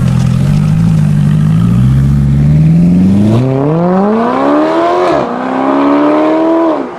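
Mercedes-Benz SLS AMG's naturally aspirated V8, fitted with an aftermarket exhaust, accelerating hard. The revs climb steadily, drop sharply on an upshift about five seconds in, climb again, and then fall away near the end.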